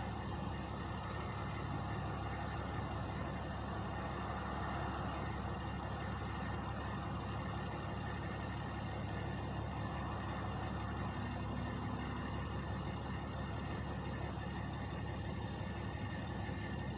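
Two trucks' engines idling steadily, a continuous low drone with a constant pitch.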